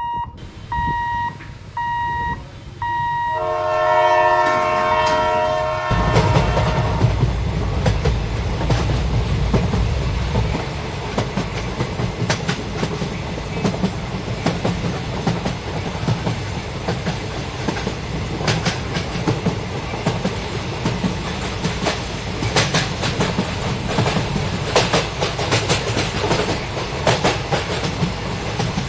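A pitched beep repeats for about three seconds, then an electric multiple-unit train's horn sounds a multi-tone chord for about two and a half seconds. From about six seconds in, the train passes close by with a heavy rumble and the clickety-clack of wheels over rail joints.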